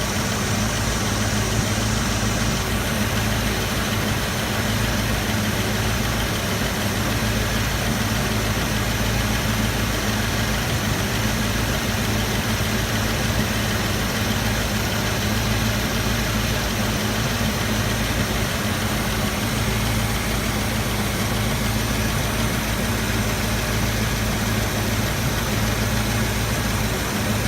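Car engine idling steadily, with the sound of an exhaust leak. A higher hiss drops away about three seconds in.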